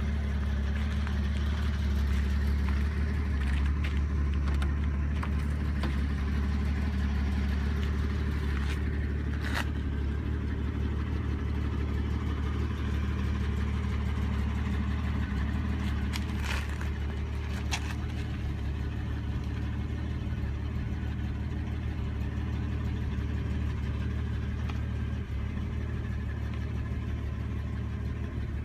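A 1964½ Ford Mustang's engine idling steadily with a deep, even hum. There are a few brief clicks about a third and about halfway through.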